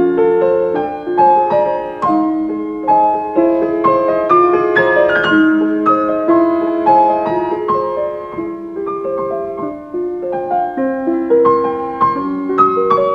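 Background piano music, a gentle run of sustained notes.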